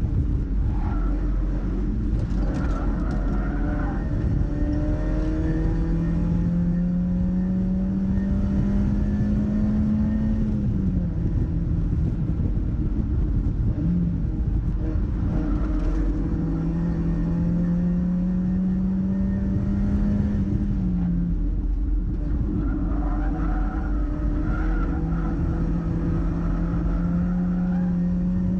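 Mazda MX-5's four-cylinder engine pulling hard on track in three long stretches, its pitch climbing steadily each time and falling away after the first two, over heavy wind and road rumble.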